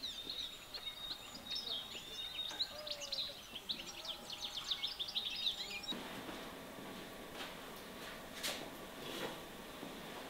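Small songbirds chirping and trilling in quick, busy phrases, cutting off suddenly about six seconds in. After that there is only quiet room tone with a few soft knocks and rustles.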